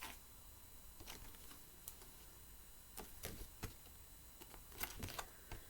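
Faint, irregular clicks and light taps, about eight spread over a few seconds.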